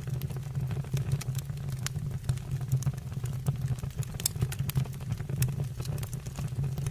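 Fire burning in a fireplace, with frequent sharp crackles and pops at irregular intervals over a steady low rumble.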